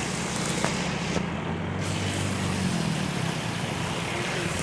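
An engine running steadily, its low hum under a constant rushing noise.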